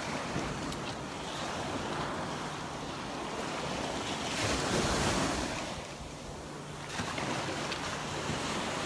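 Gulf of Mexico surf washing onto the beach, one wave swelling louder about four to five seconds in and then falling away, with wind buffeting the microphone.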